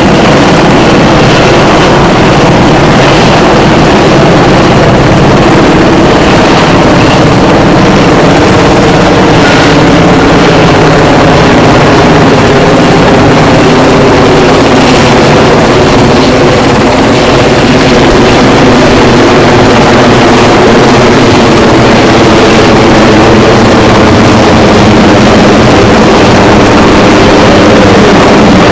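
Helicopter turbine and rotors running close by: a loud, steady drone.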